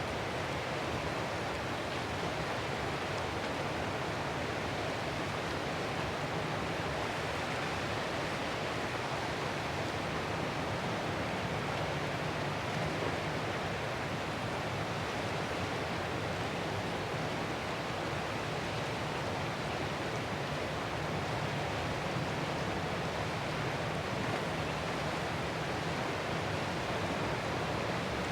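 Ocean surf making a steady, even wash of noise, with no separate wave breaks standing out.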